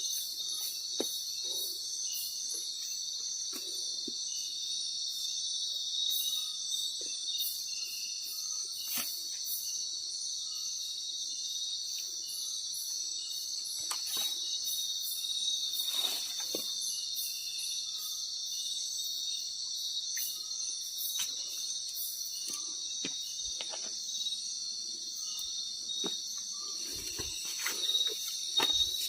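Night chorus of crickets and other insects: a dense, steady high-pitched shrill, with scattered faint clicks and rustles.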